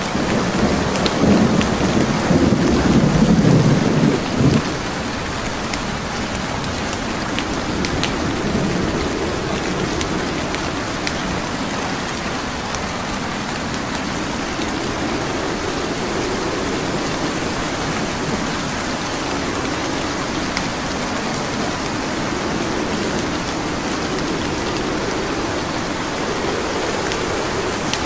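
Steady rain with the scattered sharp pops and crackles of burning wood logs in a fireplace, and a low roll of thunder in the first few seconds.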